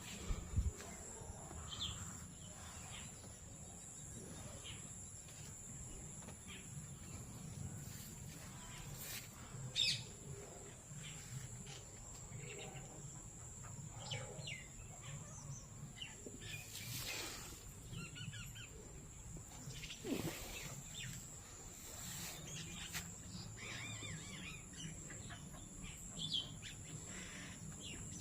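Birds calling and chirping in scattered short calls, with a few louder ones standing out, over a steady high-pitched tone and low outdoor background noise.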